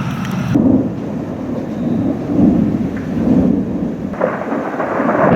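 Thunder rumbling and rolling with rain falling. It starts after an abrupt cut about half a second in, and the rumble grows louder and brighter about four seconds in.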